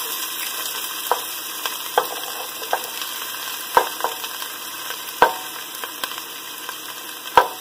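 Chopped ginger and onion sizzling in hot oil with spices in a large pot, with sharp clicks every second or so.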